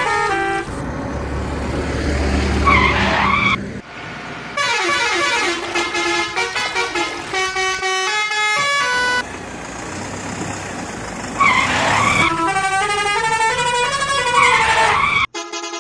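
A run of vehicle sound effects: pitched horn honks and melodic horn notes, rumbling engine noise, and wavering siren-like wails, changing every few seconds.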